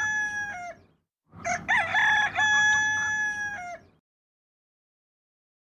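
Rooster crowing: the end of one cock-a-doodle-doo, then a second full crow starting a little over a second in.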